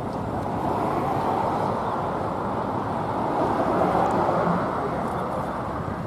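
Car driving past: a steady rush of vehicle noise that swells about a second in and again around the four-second mark.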